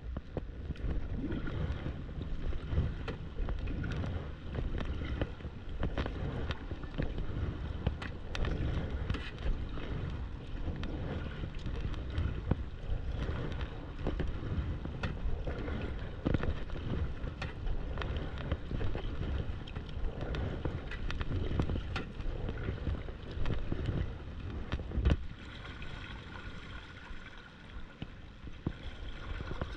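Wind rumbling on the microphone over kayak paddling: water splashing and dripping, with scattered knocks of the paddle. The wind eases a little about 25 seconds in.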